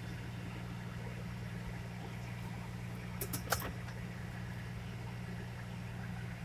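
Steady low engine idle, with a few short sharp clicks about three and a half seconds in.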